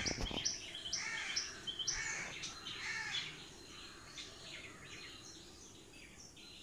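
Birds chirping in quick, repeated short high calls, fading out after about three seconds. A couple of sharp knocks come right at the start.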